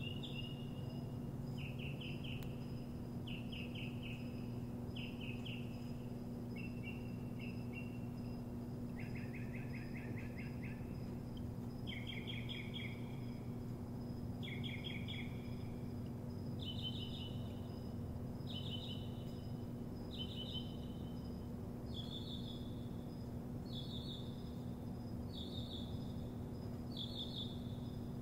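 A songbird singing short trilled phrases, one every one and a half to two seconds, repeating each phrase a few times before switching to a new one, including a longer, lower trill about ten seconds in. A steady low hum runs underneath.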